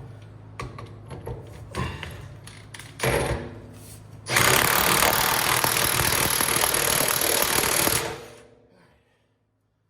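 A few light metal clinks of tools, then an impact wrench hammering a bolt tight for about four seconds before it stops and the sound dies away.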